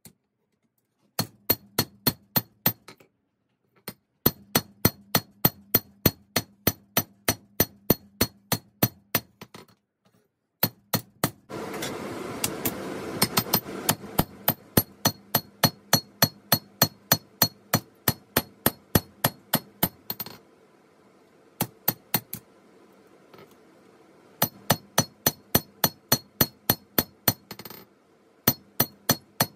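Hammer blows on 5160 spring steel over an anvil, struck in steady runs of about three a second, each with a bright metallic ring, with short pauses between runs. A loud hiss comes in under the blows about twelve seconds in and lasts a couple of seconds.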